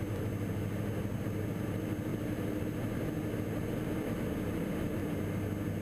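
Cockpit drone of a Diamond DA42 NG's twin Austro turbo-diesel engines and propellers running steadily in flight, an even hum with a low pitched tone.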